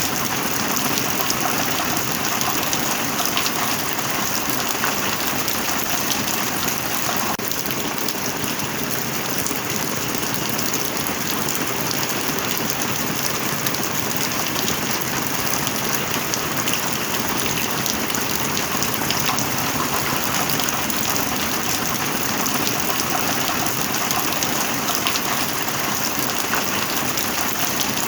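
Steady heavy rain, a dense even hiss of countless drops striking a surface, with no change in strength.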